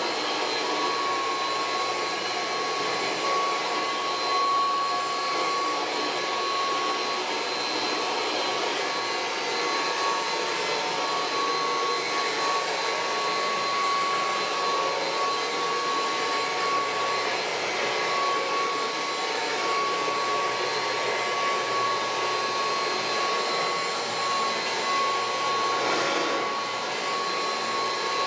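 Kirby Heritage II upright vacuum cleaner running steadily, a high whine wavering in and out over its motor and rushing air.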